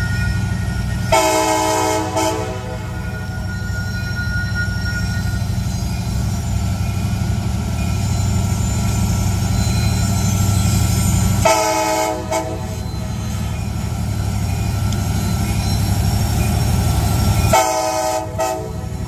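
Diesel-electric freight locomotive engine running with a steady low rumble, while its air horn sounds three short blasts several seconds apart, about a second in, near the middle and near the end.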